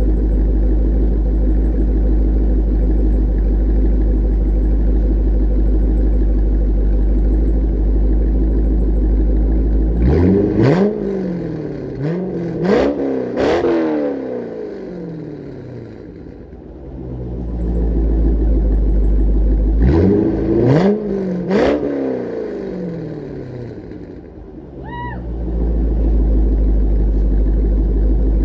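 C5 Corvette V8 with a Corsa exhaust idling, then revved in quick blips: three sharp revs about ten seconds in that fall back to idle, and two more about twenty seconds in.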